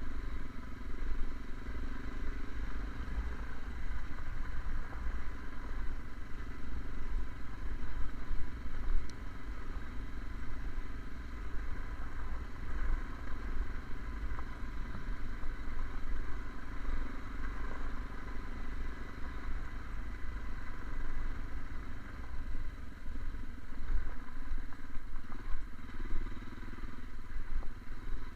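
Fiat Strada pickup driving: steady low engine and road rumble with an uneven, fluctuating loudness.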